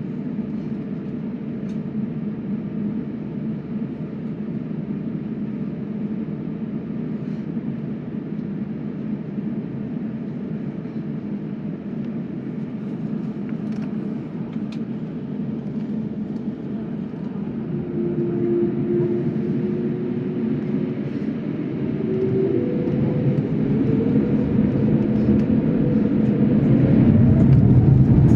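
Jet airliner's engines heard from inside the cabin: a steady hum, then from about two-thirds of the way in a whine rising in pitch and a rumble growing louder as the engines spool up to takeoff thrust.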